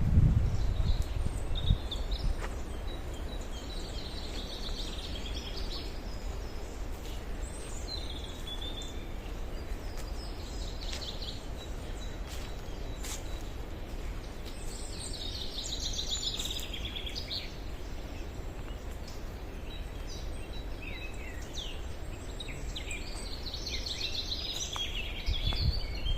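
Songbirds singing in short, high, chirping phrases every few seconds over a steady rush of flowing river water. There are a few low thuds at the very start and again shortly before the end.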